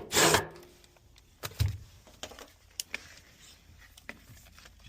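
Handling noise as parts and tools are worked: a short loud scrape or rub, then a few scattered clicks and a dull knock.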